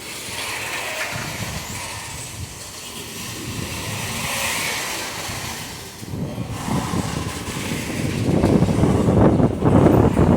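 Loaded iron-ore freight train rolling past at low speed, a steady rumble of wagons on the rails that grows louder and rougher over the last few seconds.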